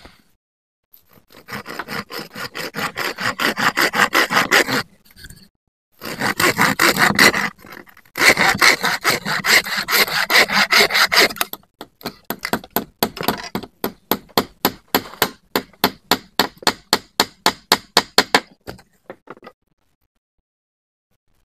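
Hand saw cutting through wood in fast back-and-forth strokes, in three bouts with short pauses between, stopping a couple of seconds before the end.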